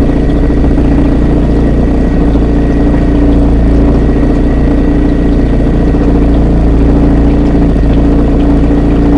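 Small boat's outboard motor running steadily at low trolling speed, with an even hum and a low rumble close by.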